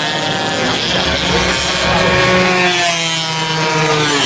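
Two-stroke 120cc racing motorcycle engines at high revs, several engine notes overlapping and sliding up and down in pitch as the bikes pass.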